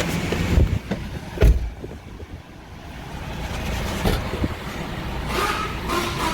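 A 2011 Honda CR-V's engine running, with two heavy thumps about half a second and a second and a half in, and a rushing noise rising about five seconds in.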